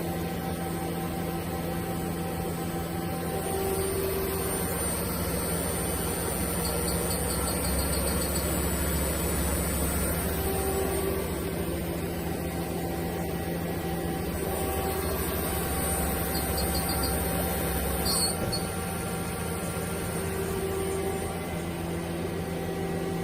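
Yamazaki Mazak QTN-200M CNC lathe running on a test run: a steady machine hum with several held tones over a low rumble. Twice there is a short run of rapid high pips, and the low rumble eases about eighteen seconds in.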